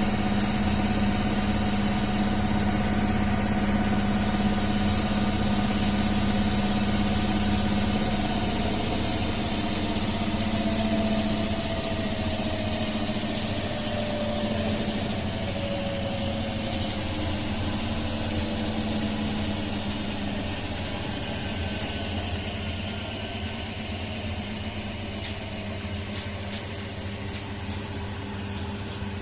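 Washing machine running with a steady hum and motor whine. The whine slowly falls in pitch and the whole sound grows quieter through the second half. A few light clicks come near the end.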